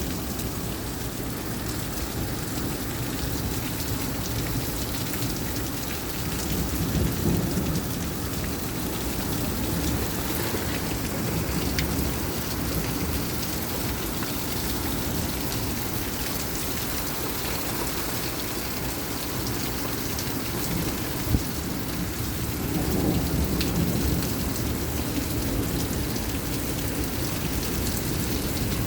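Heavy rain from a severe thunderstorm falling steadily, with thunder rumbling low twice, about a quarter of the way in and again about three quarters in. A single sharp click sounds shortly before the second rumble.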